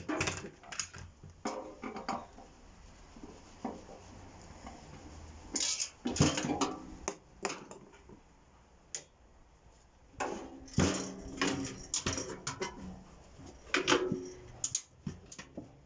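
Intermittent clatter and knocks of metal and plastic parts from a microwave being dismantled by hand, with hand tools handled among them, in several bursts of handling.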